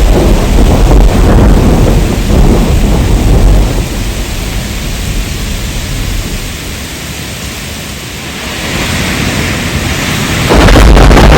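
Heavy rain with a long low rumble of thunder that rolls for a few seconds and fades away, leaving the hiss of rain. Loud low rumbling noise cuts back in suddenly near the end.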